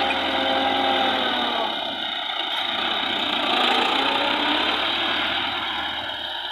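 Massey Ferguson 385 diesel tractor engine running steadily, getting quieter near the end.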